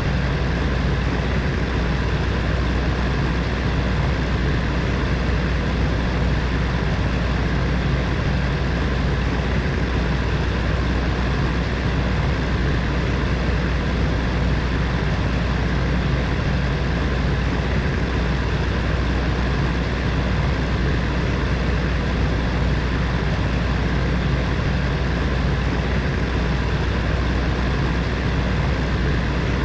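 Electric heater fan running steadily: an even rush of air over a constant low hum.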